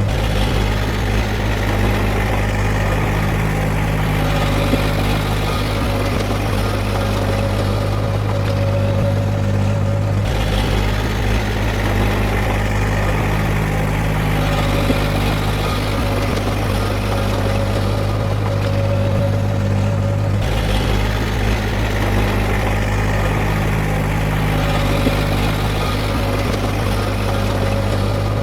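Heavy earthmoving machinery's diesel engine running steadily with a deep, constant hum. Its tone shifts abruptly twice, about every ten seconds.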